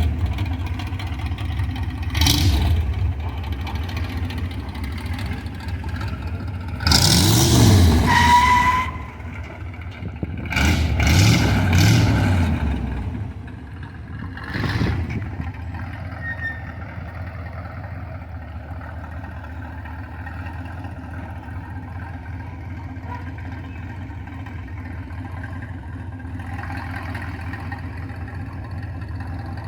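Rat rod's Ford V8 engine idling, blipped briefly a couple of times and revved twice for a second or two each, the pitch rising and falling, then settling back to a steady idle.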